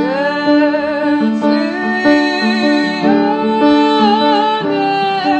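Live piano ballad: a woman's voice sings a long held note with vibrato, then slides through a few more sustained notes. Steady repeated piano chords play underneath.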